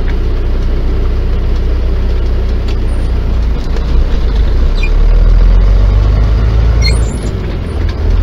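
Semi-truck engine and road noise heard inside the cab while driving: a steady low rumble that grows louder about five seconds in.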